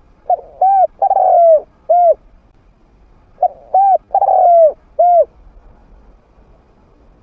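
Spotted dove cooing in two phrases, about three seconds apart, each of two short coos, one long drawn-out coo and a short closing coo. It is a trained bird with a medium-pitched voice.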